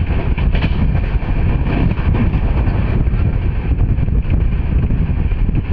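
Steady rumble and rush of a moving passenger train, heard from a coach window, with wind buffeting the microphone.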